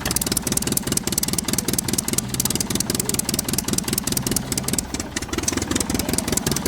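Toy vehicle driving with a steady, fast-rattling engine-like running sound.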